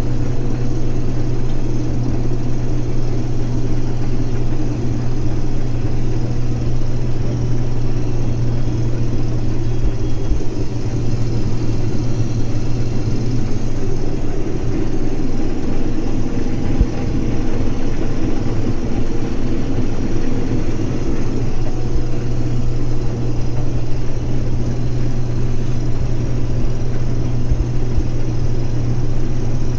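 Case IH 2388 combine running steadily while cutting wheat: a constant engine and machinery drone.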